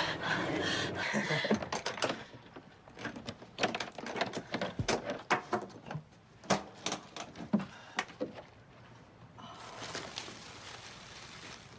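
Scattered sharp clicks and knocks, irregular, over several seconds, then a steady hiss of background noise begins near the end.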